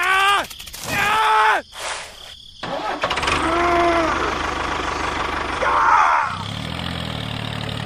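Two short rising-and-falling voice-like calls, then a small engine starting up. It settles into a steady low running note from about six seconds in.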